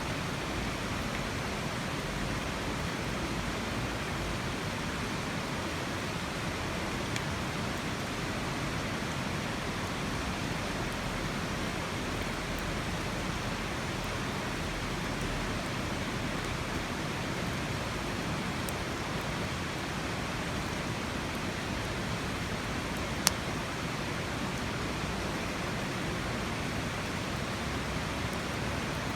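A steady rushing hiss, with a few faint ticks and one sharp crackle about three-quarters of the way through, typical of a campfire burning beside constant background noise such as a stream.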